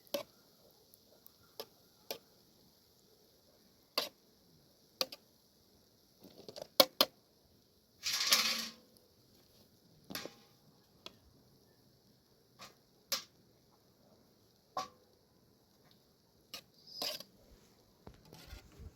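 Scattered light clicks and knocks of objects being handled, with a louder rustling scrape lasting about a second, starting about eight seconds in, over a faint steady high hiss.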